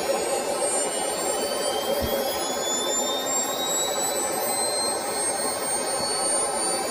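Small turbojet engine with a see-through casing running steadily, a loud rush of air with a high turbine whine that climbs slowly in pitch as it spools up. A brief low thump about two seconds in.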